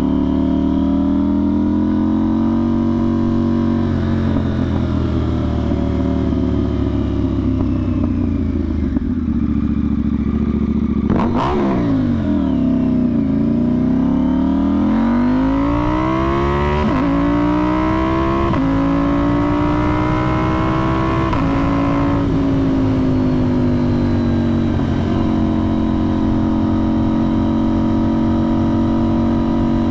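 KTM 990 Duke's parallel-twin engine through a budget aftermarket exhaust with the soundbox removed and the catalytic converter left in, heard from the bike while riding. A steady cruising note, then about a third of the way in the revs drop and the bike pulls hard, the pitch rising and breaking at three upshifts before settling back to a steady cruise.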